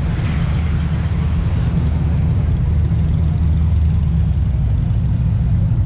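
Steady low engine rumble of a car, with road and traffic noise, holding even throughout.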